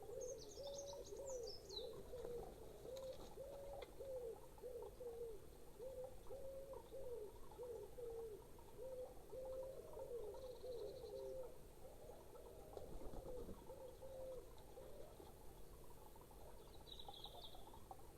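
A dove cooing faintly in repeated phrases of several low notes, stopping about three-quarters of the way through, with a few brief high chirps from a small bird near the start and again near the end.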